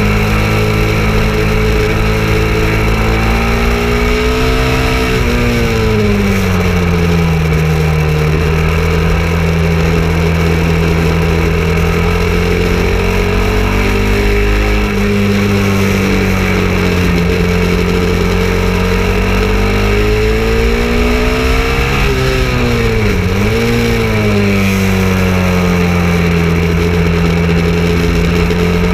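KTM 690 Duke's single-cylinder engine pulling hard at high revs around a race track. Its pitch rises and falls with throttle and gear changes, with a quick dip and recovery about three-quarters of the way through.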